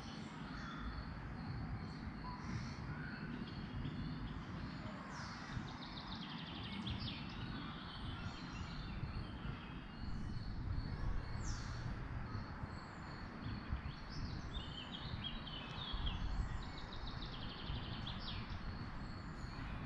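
Songbirds chirping and trilling among trees, with one high note repeated steadily, over a low, uneven rumble.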